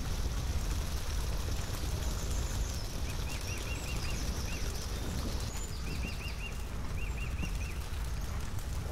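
A small songbird chirping in quick runs of four or five high notes, three times from about three seconds in, over a steady low outdoor rumble.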